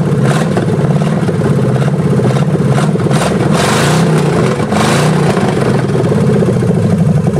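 Chevy small-block V8 running loud on bare exhaust manifolds with no pipes fitted. The throttle is worked by hand at the carburetor, so the revs rise and fall a few times around the middle before it settles back to a steadier run near the end.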